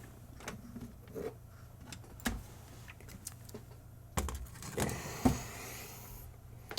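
Small clicks and knocks of cable connectors and a circuit board being handled and pushed into place inside a soundbar's case, with a longer rustle about four seconds in and a faint steady hum underneath.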